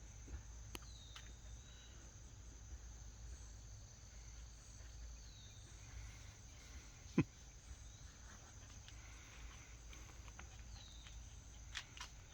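Insects droning steadily in a high, unbroken tone, with a few faint clicks and one sharper click about seven seconds in.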